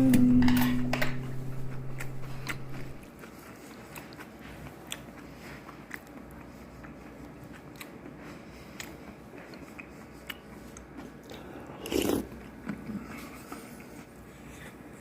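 Acoustic guitar music dying away in the first three seconds, then faint scattered clicks and small crunches of someone eating close to the microphone, with one louder noisy sound about twelve seconds in.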